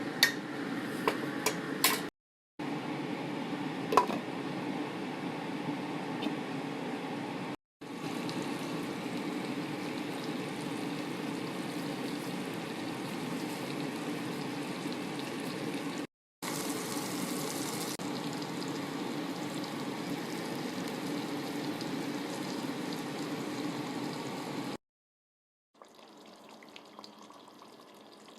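Food cooking on the stove: a steady hiss of liquid simmering in a pot, heard in several segments broken by abrupt cuts, with a few sharp clinks in the first four seconds. Near the end the sound drops to a quieter level.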